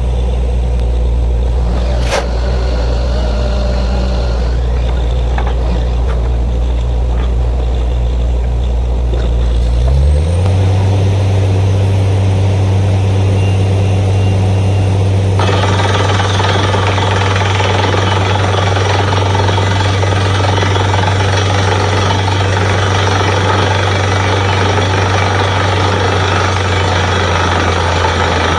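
Borewell drilling rig's diesel engine running steadily, then speeding up about ten seconds in. About five seconds later a loud, steady rushing noise joins the engine.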